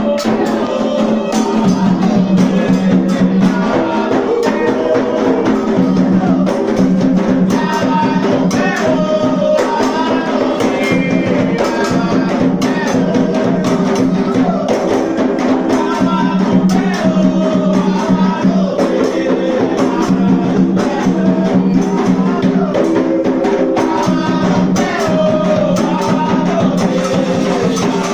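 Singing of an Afro-Brazilian ritual chant for Xangô, accompanied by drums and jingling percussion.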